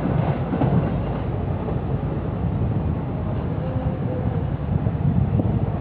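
A passenger train rolling past, a steady loud rumble of wheels on the rails.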